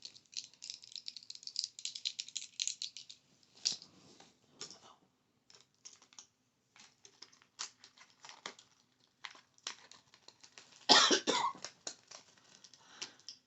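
Fast fingernail tapping and clicking on hard items and keyboard keys. It is dense for the first few seconds, then comes in scattered taps. A louder, noisier burst comes about eleven seconds in.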